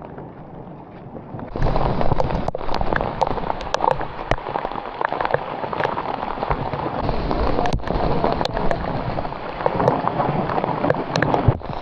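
Heavy hail pelting down: a dense patter of hailstones striking, with many sharp individual clicks. It is lighter at first and comes in hard about a second and a half in.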